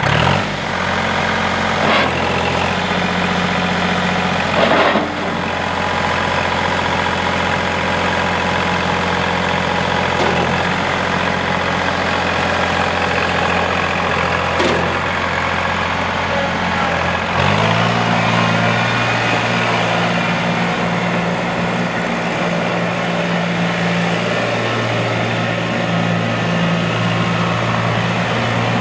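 Kubota L2502's three-cylinder diesel engine idling steadily, then picking up to a higher steady engine speed about seventeen seconds in. A few faint clicks in the first half.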